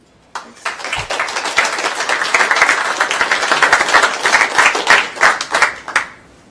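Audience applauding at the end of a lecture, a dense patter of many hands clapping that builds within the first second, holds for about five seconds and fades out near the end.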